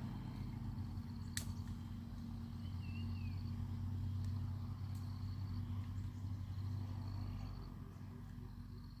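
Steady low rumble with a high, thin trill coming and going several times over it, one short chirping call about three seconds in, and a sharp click near the start.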